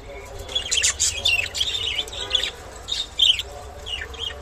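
Budgerigar chattering: a run of quick chirps and warbled notes, several short clusters a second, over a steady low hum.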